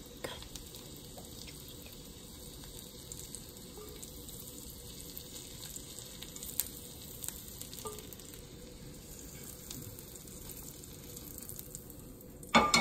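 Lion's mane mushroom slices sizzling steadily as they fry in butter in a skillet, with a few light clicks of a spatula against the pan. A brief louder sound comes just before the end.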